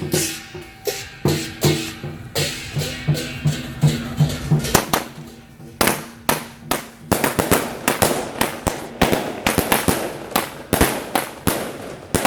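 Firecracker strings going off in rapid, irregular sharp cracks, growing dense from about five seconds in. Under the first part, temple-procession music with a regular drumbeat.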